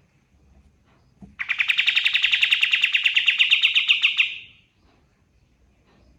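A kapas tembak songbird singing one loud, rapid trill of about a dozen notes a second, lasting about three seconds from a little over a second in. The trill holds a steady pitch and fades out at the end.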